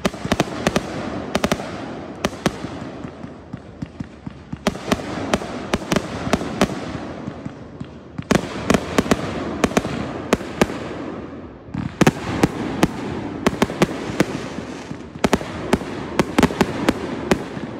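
Fireworks display: aerial shells bursting in quick volleys of sharp bangs and crackles, several at a time, with short lulls between volleys.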